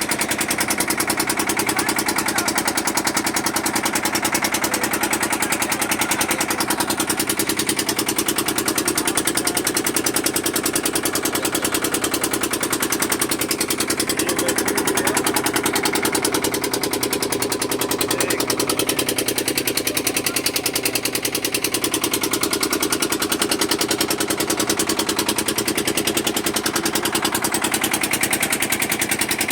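An engine running steadily with a fast, even pulse and no change in speed.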